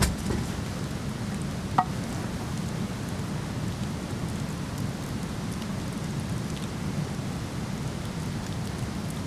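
Steady low rush of a waterfall, with a wood fire crackling: a sharp pop right at the start and another, with a brief whistle, just under two seconds in.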